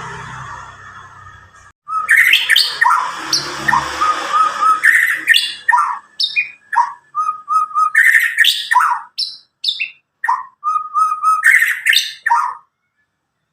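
White-rumped shama (murai batu), a young Medan bird, singing loud and clear: a rapid string of short whistled and chirping phrases, some rising, some trilled, that starts about two seconds in and stops shortly before the end.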